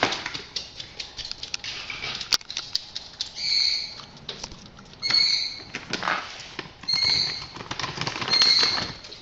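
A pet bird scrabbling and rustling about inside a tunnel, with four short chirps a second and a half to two seconds apart.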